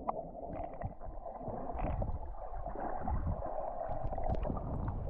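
Sea water sloshing and gurgling around a GoPro as the swimmer wades into the Mediterranean, muffled, with a few small knocks.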